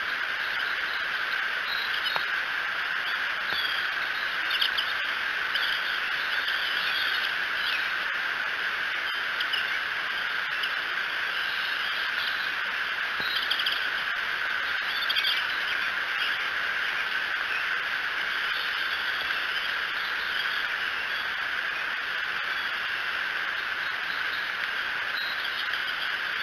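Short, high bird chirps, scattered and coming more often in the first half, over a steady outdoor hiss picked up by an outdoor nest-camera microphone.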